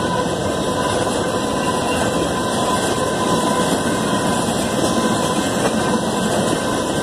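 Covered hopper cars of a BNSF grain train rolling past at a grade crossing: a steady rumble and clatter of wheels on rail, with steady high tones held over it.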